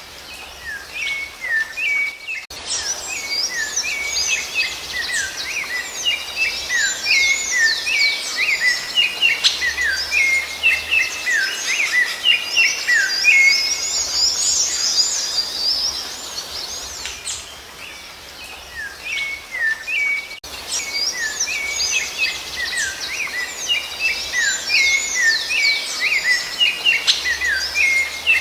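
Rufous-bellied thrush (sabiá-laranjeira) singing: a dense stream of quick whistled and chirping notes, rising and falling, with a short lull about two-thirds of the way in and two abrupt breaks where the recording is spliced.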